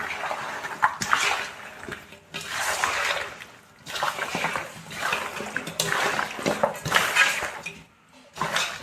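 Raw chicken pieces being mixed and rubbed by hand into a wet spice masala marinade in a bowl, a squelching, wet swish roughly once a second.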